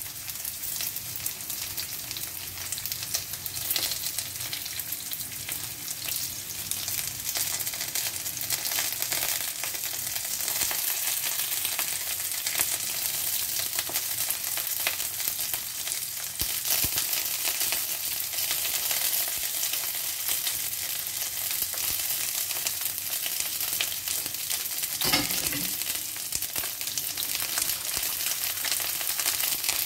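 Bite-sized cornstarch-coated chicken pieces frying in hot cooking oil in a nonstick frying pan: a steady sizzle with fine crackling, and one brief louder noise near the end.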